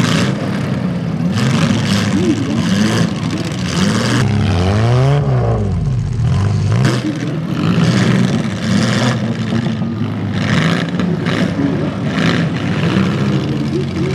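Demolition derby car engines revving up and down under load. One engine's pitch climbs and drops again about five seconds in, with short rushes of noise on top.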